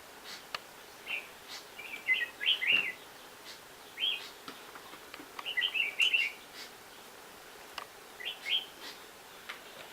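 Small birds chirping in clusters of quick, high notes that come back every second or two, with a few faint clicks in between.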